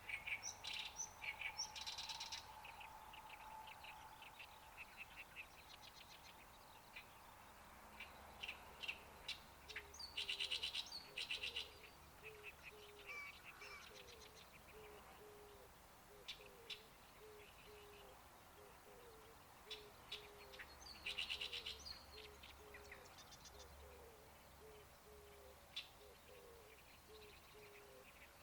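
Birds chirping and singing in short, scattered phrases, with two buzzy trills. From about a third of the way in, a low short call repeats a few times a second underneath.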